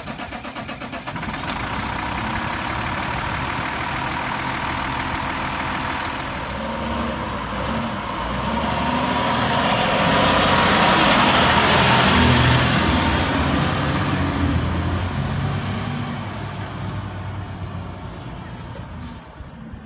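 Heavy truck diesel engine running, the Cummins ISM of a Peterbilt 320 refuse truck. It grows louder to a peak about halfway through, with a thin high whine over it, then eases off and fades near the end.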